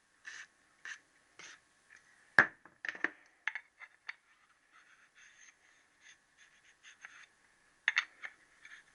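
Small metal engine parts being handled on a workbench: scattered light clicks, scrapes and clinks, with one sharper knock about two seconds in and another short cluster near the end.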